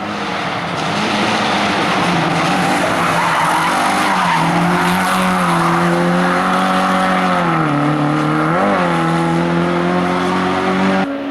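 Hill-climb race car engine running hard at high revs, its pitch stepping down and climbing again through gear changes, with a quick rev blip about two-thirds of the way through. It cuts off suddenly just before the end.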